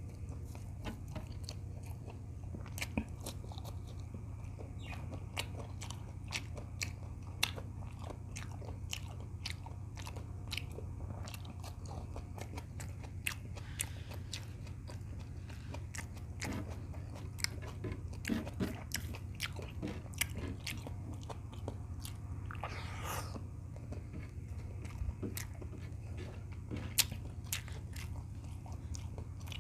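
Close-miked chewing and mouth sounds of a person eating beef tocino with rice, with many short sharp clicks scattered throughout. A steady low hum runs underneath.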